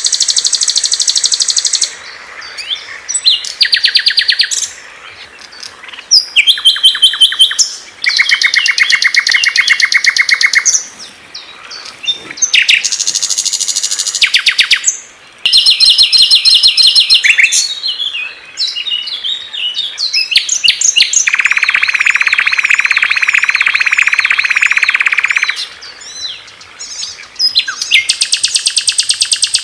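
Calls and songs of small songbirds played one after another: loud, high, fast repeated chirps and trills. The pattern changes abruptly every few seconds as one bird's call cuts to the next.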